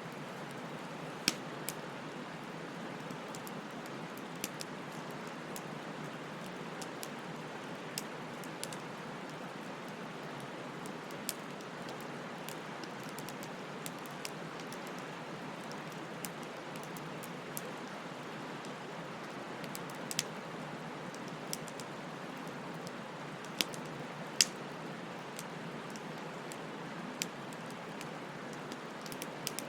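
Wood fire burning with a steady hiss and irregular crackles and pops, a few of them sharp and loud.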